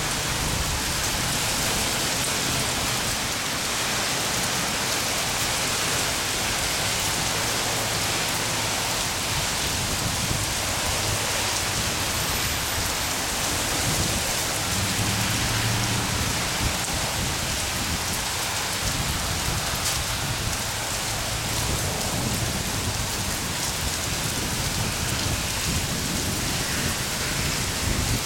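Heavy rain pouring steadily onto pavement, puddles and parked cars, with a few low rumbles now and then.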